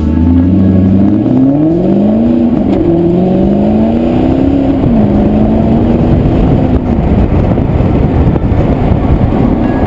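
Maserati GranTurismo MC Stradale's 4.7-litre V8 accelerating hard: the engine note climbs, drops at an upshift about two seconds in, climbs again more slowly, then settles to a steady note about five seconds in. Heavy wind and road noise runs underneath.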